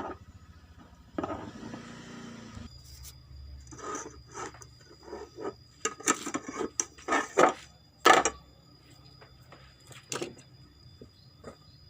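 Tools and parts being handled during a washing machine repair: a scrape lasting about a second and a half, then a run of irregular clicks and knocks, the loudest about eight seconds in.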